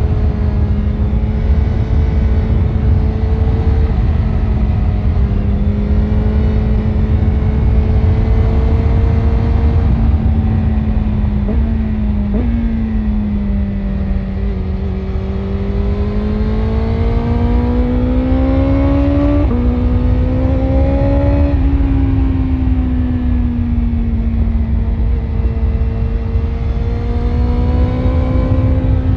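BMW S1000RR's inline-four engine running through an Akrapovic exhaust at steady cruising revs, under heavy wind rumble. The engine note briefly breaks about twelve seconds in, climbs slowly, drops in a quick step at about nineteen seconds as with a gear change, then eases down again.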